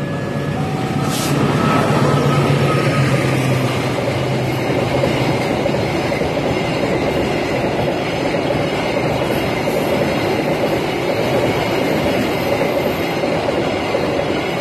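A diesel locomotive's horn ends about a second in. The locomotive then passes with its engine droning for a few seconds, followed by a long container freight train rolling by with a steady rumble and rattle of wheels on rail.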